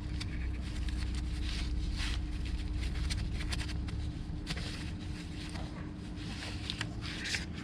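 Scattered clicks and short rustling and handling noises of parts being refitted on the car, over a steady low hum that stops about four seconds in.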